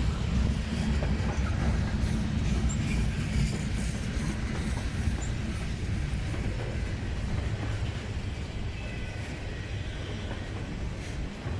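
A train rolling past on the rails, its wheels and cars making a steady rumble that slowly fades.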